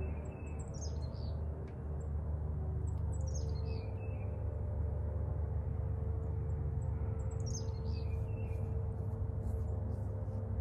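Small birds chirping: three short bursts of quick high twitters, each falling in pitch, about a second in, at three seconds and near eight seconds. Under them runs a steady low drone.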